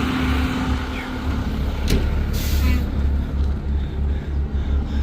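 Fire truck idling, a steady low engine hum, with a short hiss of air about two and a half seconds in.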